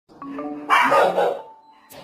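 Short musical notes, then about 0.7 s in a loud dog bark lasting around half a second.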